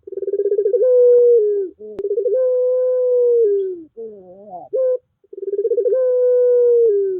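Puter pelung dove cooing: three long drawn-out coos, each opening with a quick rippling stutter and then holding a steady tone, with shorter wavering notes between the second and third.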